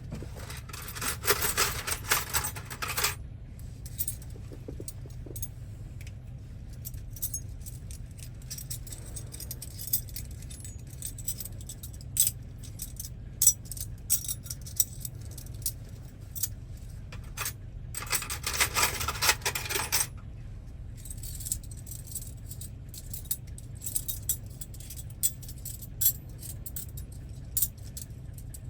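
Loose metal key blanks jangling and clinking as they are sorted through by hand, with scattered single clinks and two longer spells of rattling, one just after the start and one about two-thirds of the way through. A low steady hum sits underneath.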